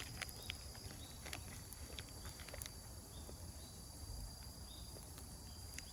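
Faint scattered crackling of a wood campfire, with a steady high insect trill behind it.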